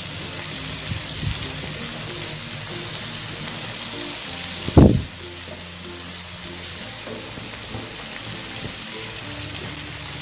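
Onion-tomato masala sizzling steadily in a nonstick frying pan as a nylon spatula stirs it, over background music. One sharp knock about five seconds in.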